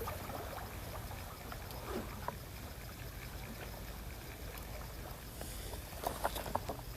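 Small waves lapping against the shore in a steady low wash, with a few light clicks about six seconds in.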